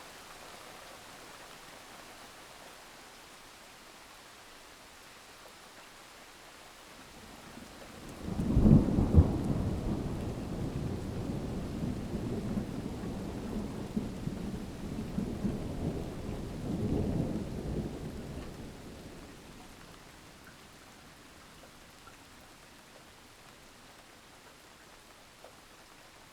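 Steady rain with a long roll of thunder: a sudden loud crack about eight seconds in, then a deep rumble that swells again near the middle and fades away after about twelve seconds.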